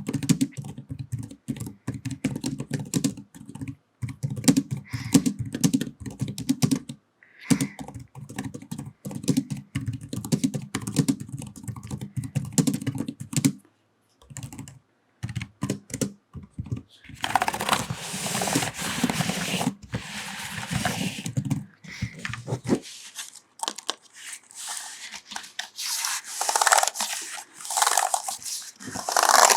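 Rapid typing on a computer keyboard, a dense run of key clicks, through the first half. After a short pause it gives way to longer, scratchier rubbing and brushing sounds.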